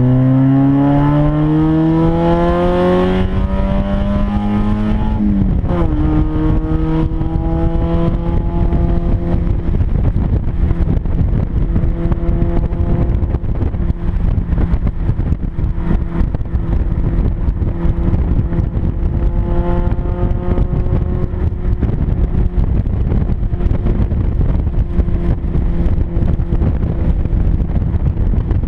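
1996 Mazda Miata's 1.8-litre four-cylinder engine, very loud through an exhaust deliberately opened up between the catalytic converter and the mid-pipe. It revs up through a gear for about five seconds, drops in pitch on an upshift, then runs at steady cruising revs.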